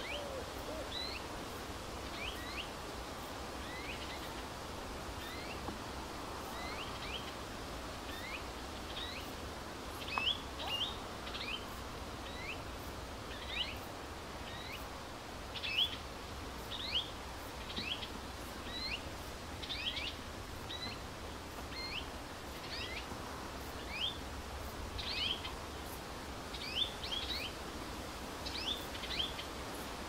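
Small birds giving short, high chirps that sweep quickly in pitch, about one or two a second and coming more often in the second half, over a steady low rumble of outdoor ambience.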